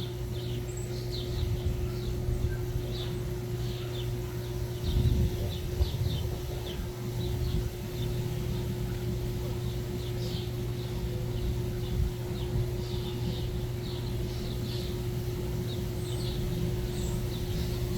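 Small backyard birds chirping, many short high chirps scattered throughout, over a steady low hum and rumble.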